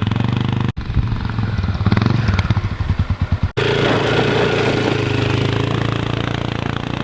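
A small engine running steadily, with a stretch of rapid pulsing near the middle. The sound breaks off abruptly twice, about a second in and about halfway through, at cuts in the footage.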